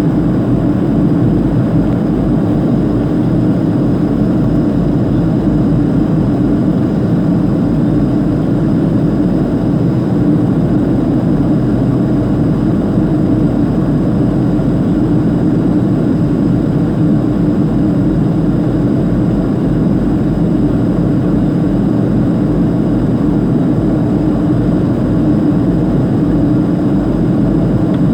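Steady cabin noise heard from inside a Boeing 737-500 in flight: the even rush of airflow over the fuselage and the drone of its CFM56 turbofan engines, unchanging throughout, with a faint steady high whine over it.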